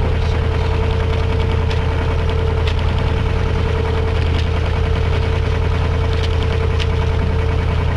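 Westerly Centaur sailing yacht's inboard engine running steadily under way, a constant low drone with a steady hum above it.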